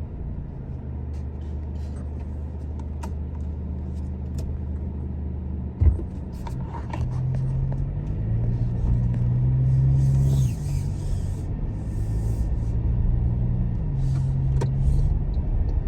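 Pickup truck engine running while driving, its pitch rising as it accelerates about halfway through and dropping a couple of seconds later. A single sharp thump sounds about six seconds in.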